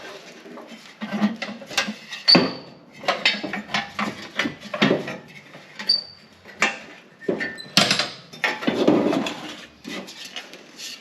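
Irregular metal clunks, knocks and rattles as the air filter and intake parts are worked loose and lifted out of a truck's engine bay by hand, with two brief high metallic squeaks.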